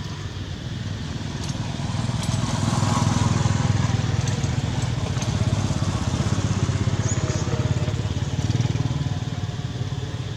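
A small engine running steadily with a rapid low pulse, growing louder about two seconds in and easing off a little near the end.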